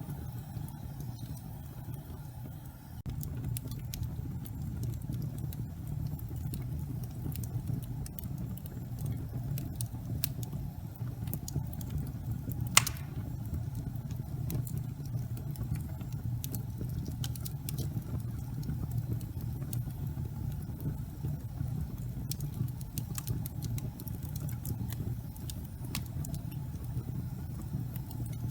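Fireplace fire burning with a steady low rumble of flame, broken by frequent small crackles and one louder pop about halfway through.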